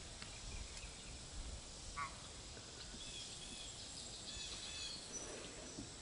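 Faint birds chirping and calling outdoors: scattered short chirps, with a brief trill a little past the middle, over a low background rumble.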